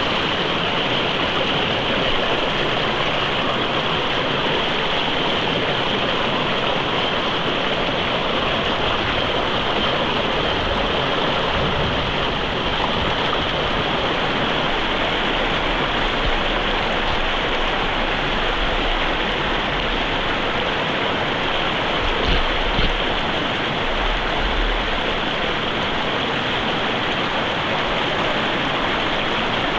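Mountain river running steadily over rocks, a continuous even rush of water, with a few brief low rumbles about two-thirds of the way through.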